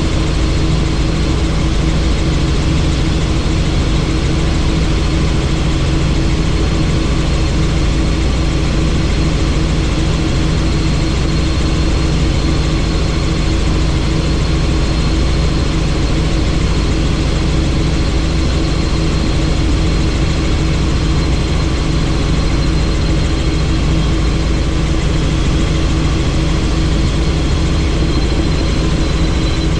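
Helicopter in flight, engine and rotor running steadily with a constant hum and a faint high whine.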